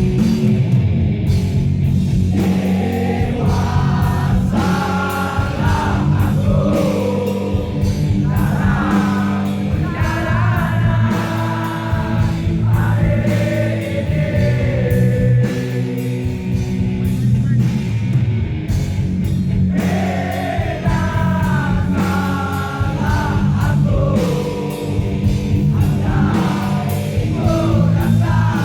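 Live rock band music with voices singing a melody over sustained chords and drums.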